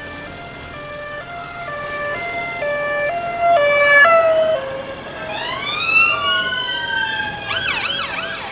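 Police sirens: a two-tone hi-lo siren growing louder, then from about five seconds several overlapping wailing tones gliding up and down, and a fast yelp near the end.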